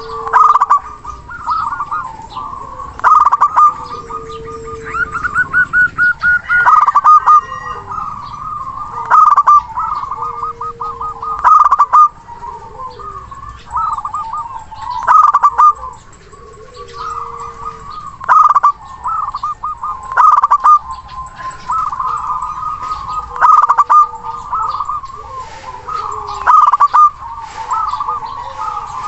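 Zebra dove (local perkutut) calls: bursts of rapid staccato cooing notes repeated about every two seconds, with lower drawn-out coos between them.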